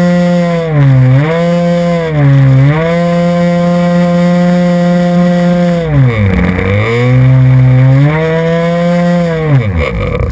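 RC model airplane's engine running steadily at a high pitch, throttled back briefly twice in the first few seconds and more deeply about six seconds in, then winding down and stopping at the end.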